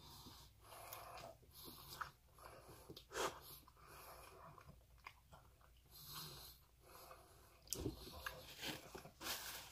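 Faint mouth sounds of a person chewing a bite of shrimp-stuffed tofu: irregular soft clicks and smacks, with breathing between them.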